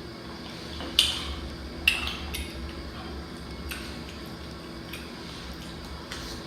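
Seafood boil being eaten and handled at the table: a few sharp clicks and clacks of shells and dishes, loudest about a second in and again just under two seconds in, over a low steady hum.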